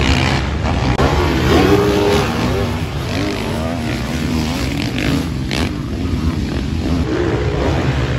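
Motocross bike engines racing, their pitch rising and falling over and over as the riders open and close the throttle.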